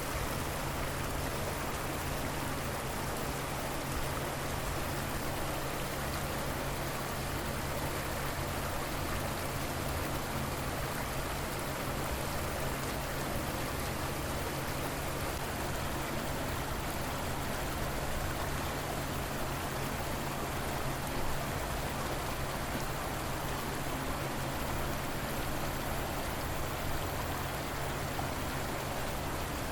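River water flowing steadily, an even rushing sound with no breaks or changes.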